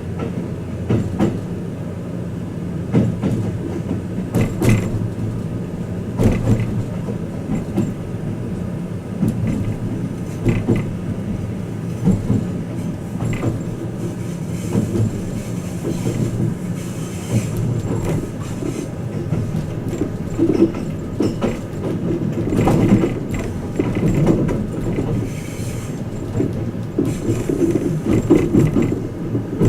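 Twilight Express Mizukaze (JR West Class 87) train running on the rails, heard from inside a guest compartment: a steady low rumble with irregular clicks and knocks as the wheels cross rail joints.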